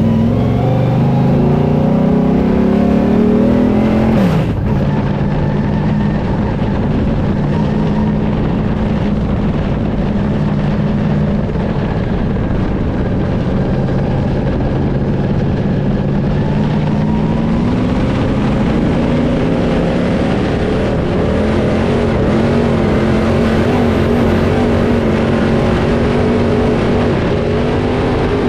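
Dirt late model race car's V8 engine under racing load: the pitch climbs for about four seconds, falls off sharply as the throttle is lifted, runs steady, then climbs again about two-thirds of the way through and holds.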